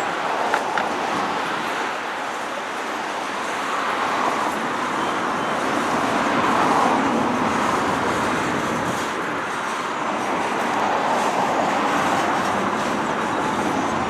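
A train rolling past with steady wheel-on-rail noise, with a few sharp clicks near the start.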